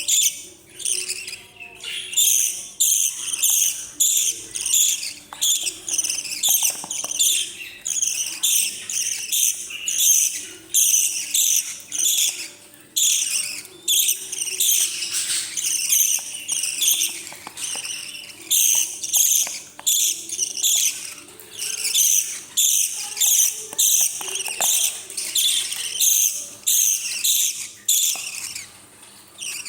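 Baby parrots giving begging calls while being fed: high-pitched chirping pulses repeated in a steady rhythm, about two a second.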